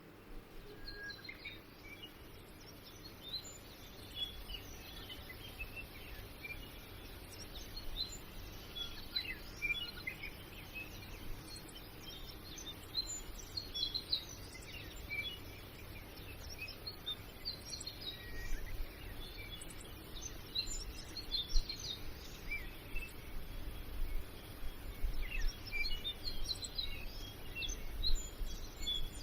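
Birds chirping: many short, high calls scattered throughout, over a low steady rumble.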